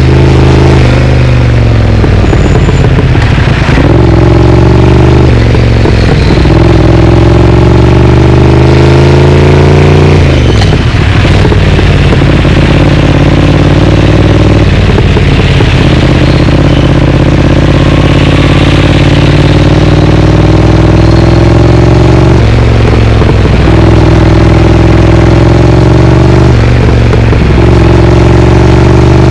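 Triumph Speed Twin parallel-twin engine running through an aftermarket Vance & Hines exhaust while riding. The engine pitch climbs steadily under throttle and is broken by brief dips several times, as on gear changes or throttle changes.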